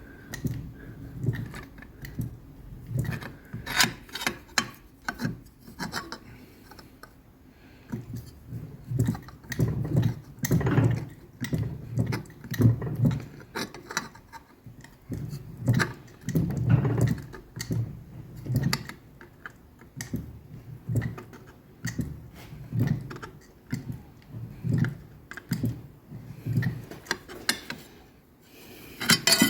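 Fly press worked over and over, its ram clunking down on the veining tooling roughly every one to two seconds to press vein lines into 2 mm steel plate, with rubbing and scraping between the strokes.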